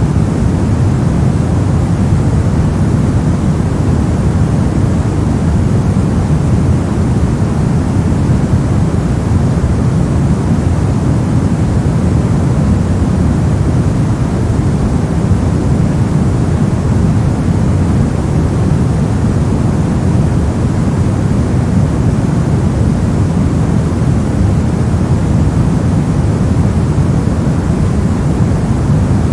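Steady, unchanging white-noise track, a loud even rush weighted toward a deep rumble rather than a bright hiss.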